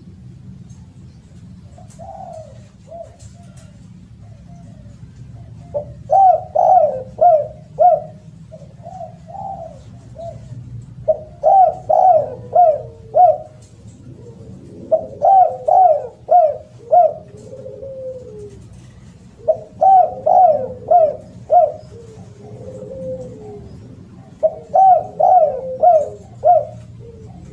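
Spotted dove (derkuku/tekukur) cooing loudly: a phrase of about five quick coos repeated every four to five seconds, with softer single coos between the phrases.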